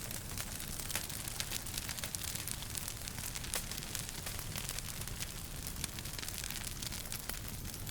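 Wood fire in a fireplace crackling, with frequent small irregular pops over a steady hiss and a low rumble.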